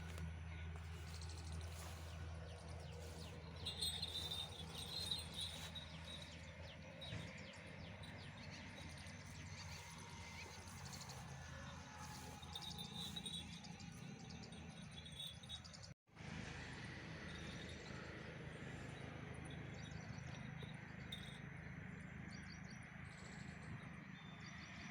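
Faint outdoor ambience over a steady low hum, with a few short bird chirps. The sound drops out for a moment about two-thirds of the way through.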